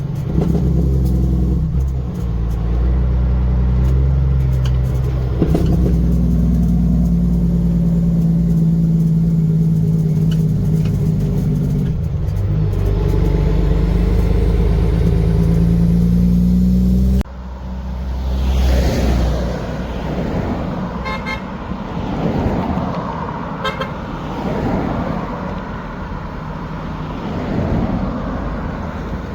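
Heavy trucks running with a horn held in long steady blasts over a low engine rumble; about two-thirds of the way through the sound cuts abruptly to a looser mix of truck engine rumble and passing traffic.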